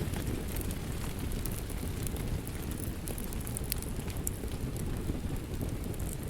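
Wood fire in a fireplace crackling: a steady low rumble of flames with scattered sharp pops and crackles throughout.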